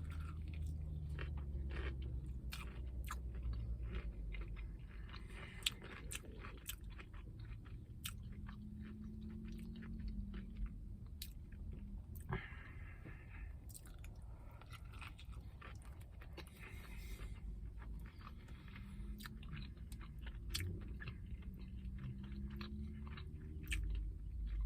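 Close-up chewing of a crispy, hand-breaded spicy fried chicken sandwich: crunching bites and wet mouth clicks, many small crackles all through.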